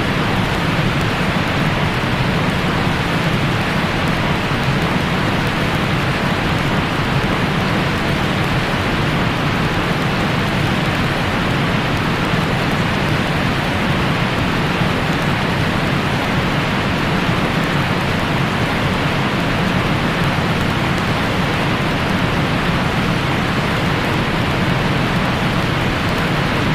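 Steady white noise for lulling a baby to sleep: an even, unchanging, rain-like hiss, fuller in the lows and middle and dull at the top.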